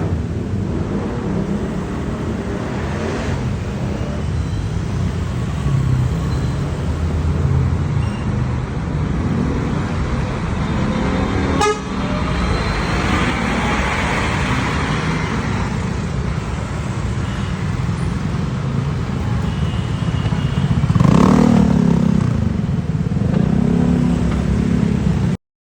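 Scania coach's diesel engine running as it moves through traffic, with horn toots, the loudest about 21 seconds in.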